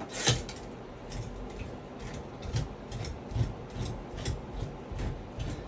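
Irregular metallic clicks and light knocks, about one or two a second with a sharper one near the start, as parts of a Sloan flush valve are worked and screwed down into the vacuum breaker.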